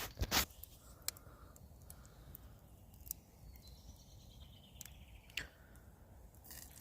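A few sharp clicks and knocks at the start, then faint scattered crackling from a campfire, with a faint falling bird call in the distance around the middle.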